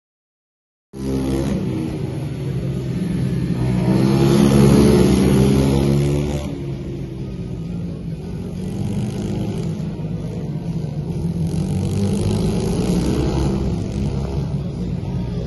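Pit bike engine running hard under racing throttle, cutting in suddenly about a second in, climbing in pitch to a peak and then easing off, with the revs rising and falling after that.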